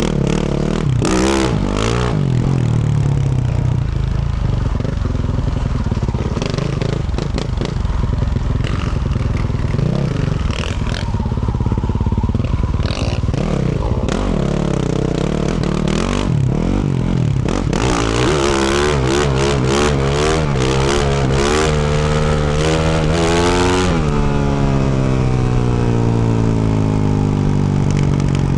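Yamaha YZ450F's 450 cc single-cylinder four-stroke engine through a Yoshimura RS-12 exhaust, revving up and down under riding, with clattering knocks from rough ground. Toward the end the revs rise and fall in quick sweeps, then the throttle is rolled off and the engine winds steadily down toward idle over the last few seconds.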